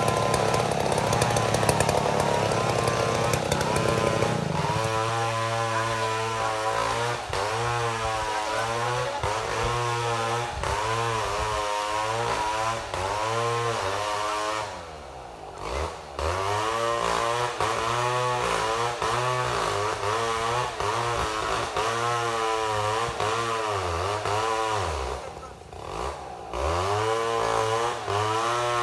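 Chainsaw on a chainsaw mill running at high revs with a wavering pitch. Twice the revs drop sharply and climb back, about halfway through and near the end.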